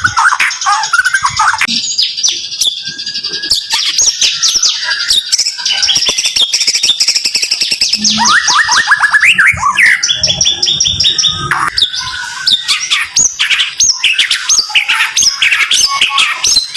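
White-rumped shama (murai batu) singing in rapid, dense volleys: quick runs of sharp repeated notes and short sweeping whistles, one after another without a pause.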